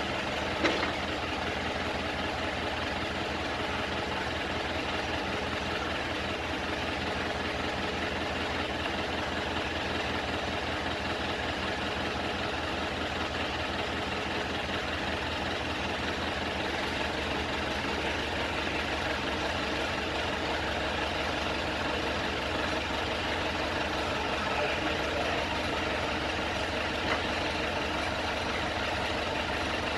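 Daewoo G25S propane forklift engine idling steadily, with a short sharp click under a second in.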